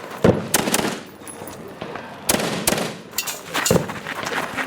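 Rifle fired in quick strings, about eight shots in all, several in fast pairs with short pauses between groups.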